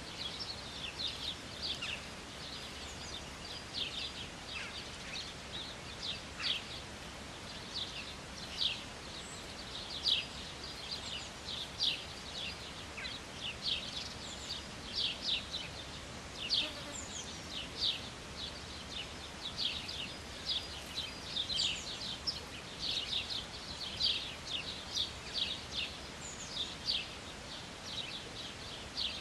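Small birds chirping: short high calls about once a second, over a faint steady background hiss.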